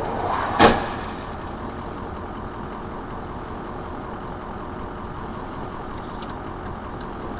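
Steady road traffic noise, broken about half a second in by one sharp, loud bang of a vehicle collision.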